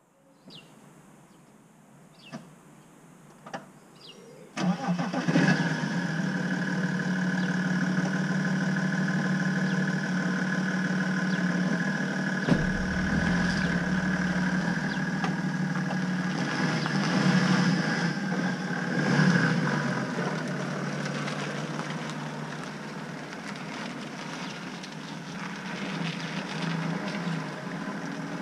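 A few knocks, then a BMW 330d's 3.0-litre straight-six diesel starts about four and a half seconds in and settles to a steady idle. Later it revs a little as the car moves off, getting fainter near the end.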